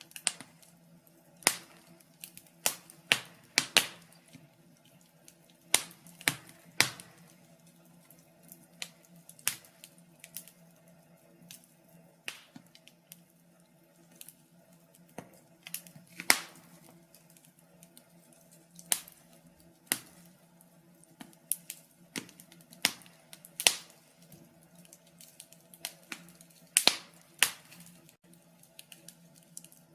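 Wood fire crackling in a fireplace: sharp, irregular pops and snaps, a few to several a second, over a faint steady hum.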